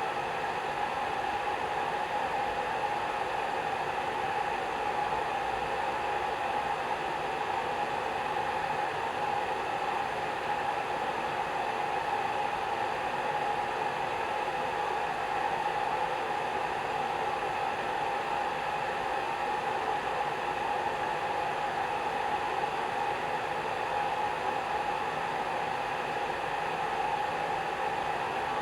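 Hair dryer running steadily: an even, unbroken blowing hiss with a strong hum near the middle of its range.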